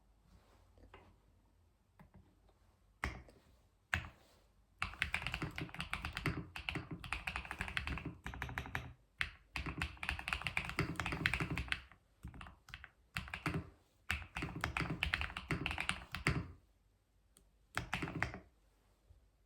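Typing on a computer keyboard: a few single key presses at first, then long runs of fast keystrokes broken by brief pauses, and one short burst near the end.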